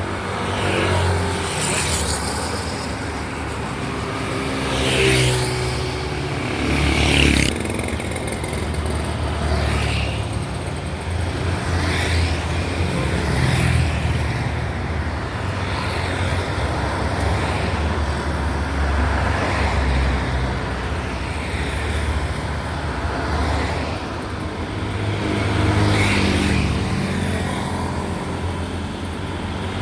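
Road traffic: a steady low engine rumble with one vehicle after another passing, each a brief rise and fall, the loudest passes about five and seven seconds in.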